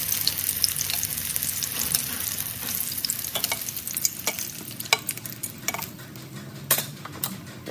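Tofu frying in hot oil in a steel wok, a hissing sizzle that slowly dies down. Over it, from about three seconds in, a series of sharp clicks of chopsticks and metal tongs tapping the wok and the wire strainer as the pieces are lifted out.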